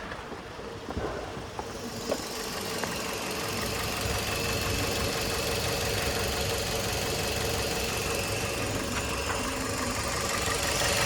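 Toyota 1NZ-FE 1.5-litre inline-four petrol engine running evenly with steady revs, in the state the narrator judges healthy. Its sound grows gradually louder over the first few seconds and again near the end.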